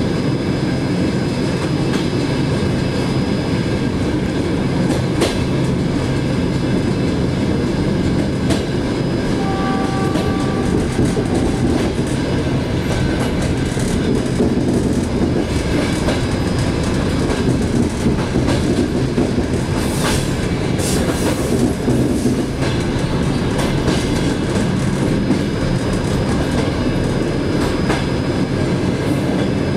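Passenger train running, heard from the rear vestibule of its last car: a steady rumble of wheels on the rails with scattered clacks as the wheels pass over rail joints and points.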